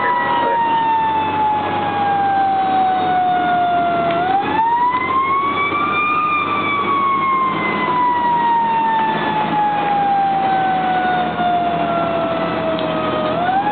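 Fire engine's mechanical siren winding: its pitch falls slowly as it coasts down, is wound back up about four seconds in, then falls slowly again and starts rising once more at the very end. The truck's engine runs steadily underneath.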